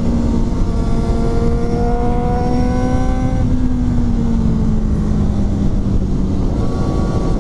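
Motorcycle engine running at highway speed, its pitch rising slightly for the first few seconds and then easing off, over heavy low wind and road noise.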